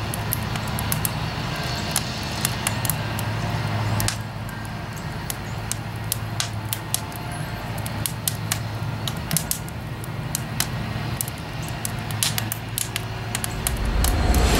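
Wood fire burning in a firebox, crackling with many irregular sharp pops and snaps over a low steady hum.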